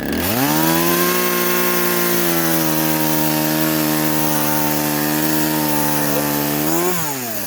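Poulan Wild Thing two-stroke chainsaw revved up to full throttle and held there, cutting into a log of deadwood, its pitch sagging slightly under the load. Near the end it revs up briefly, then drops back toward idle.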